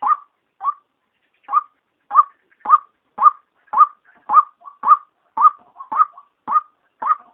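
Female white-breasted waterhen calling: a steady run of short, sharp notes, about two a second, with a brief gap about a second in and softer notes in between. This is a lure call used to draw waterhens in.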